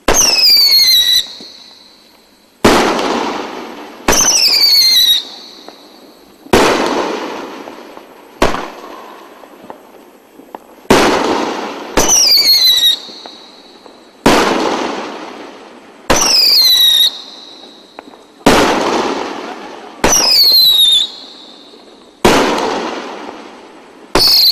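Multi-shot "Midnight Howl" firework firing a steady sequence of shots, about one every two seconds. Loud whistles, each falling in pitch for about a second and cutting off sharply, alternate with sudden bangs whose sound fades out over a second or two.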